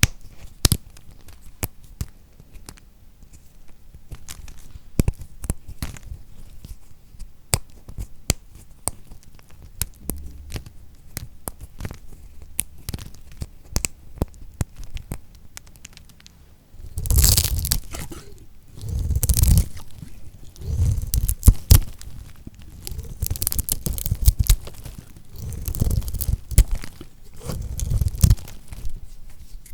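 Knife cutting through lacquered soap: sharp scattered crackles and clicks at first, then from a little past halfway a series of louder crunching cuts, each about a second long.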